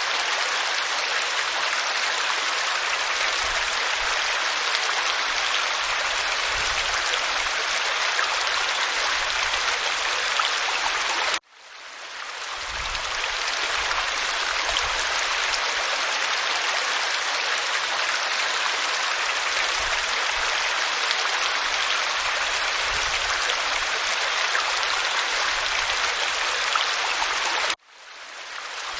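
Waterfall pouring onto rock, a steady rush of water. The sound cuts out abruptly twice, about eleven seconds in and near the end, each time fading back in over about a second.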